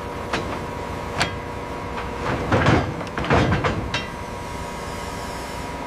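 Metal knocks and clattering from deck salvage gear: a couple of single knocks, then two louder bursts of rattling clatter in the middle and a last knock, over a steady machinery hum.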